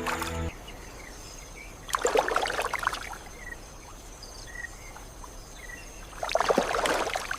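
Water splashing in two rough bursts, about two seconds in and again about six seconds in, over a faint steady insect drone.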